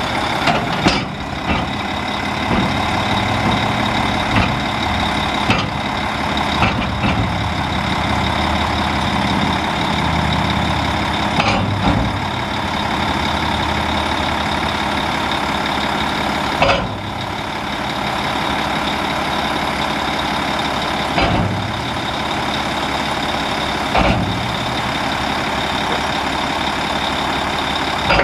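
Diesel engine of a 2005 Volvo VHD roll-off truck running steadily, with a steady high whine over it and a sharp knock or clunk every few seconds.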